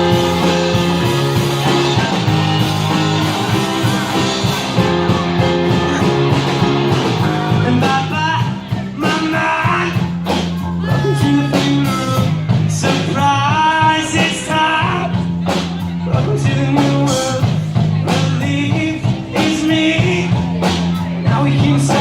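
Rock band playing a song with electric guitar, bass and drums, with a singer's voice entering about eight seconds in.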